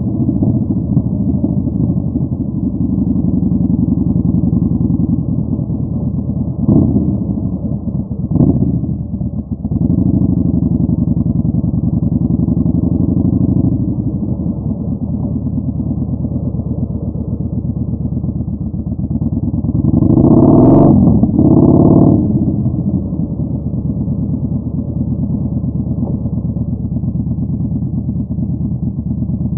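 Yamaha Bolt 950's air-cooled V-twin engine running through a Vance & Hines Twin Slash staggered exhaust while riding, engine speed rising and falling. There are two short sharp blips about seven and eight seconds in, and a louder surge of throttle in two pulses past the middle.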